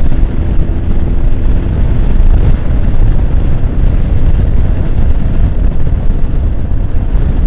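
Honda X4's inline-four engine running while the motorcycle rides along, under heavy wind rumble on the microphone. A faint steady engine tone shows in the first couple of seconds.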